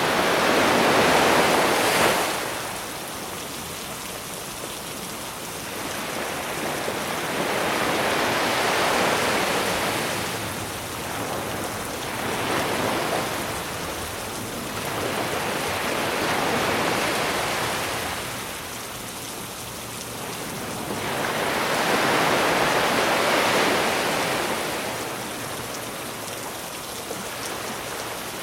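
Sea waves breaking on the shore in slow surges about every five to seven seconds, each swelling and falling away, over a steady hiss of rain.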